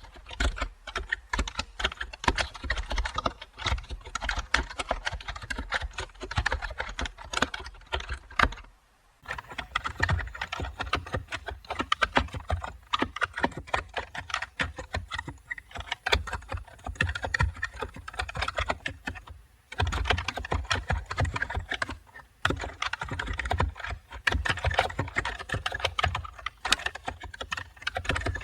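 Continuous fast typing on a computer keyboard, a dense run of key clicks with a few short pauses, one about nine seconds in and others around twenty seconds in.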